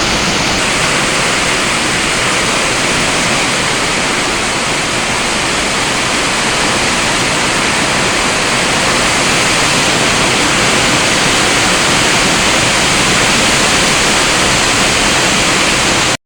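Heavy rain falling, a loud steady hiss that cuts off suddenly near the end.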